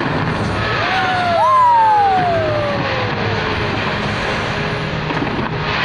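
New Year's fireworks display heard from the crowd: a dense, steady crackle and rumble. About a second in, two long tones slide down in pitch over a couple of seconds.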